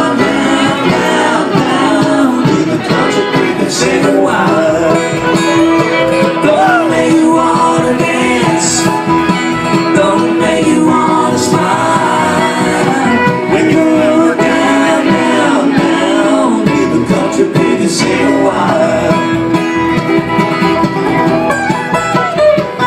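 Live bluegrass band playing a song, acoustic guitar and other plucked string instruments picking steadily.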